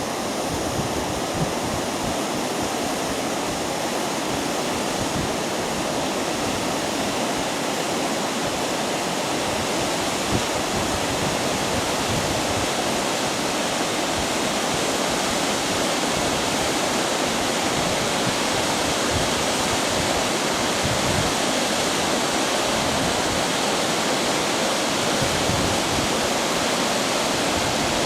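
Shirahige Falls in Biei, Hokkaido: a steady, even rush of water falling down the cliff face into the river below.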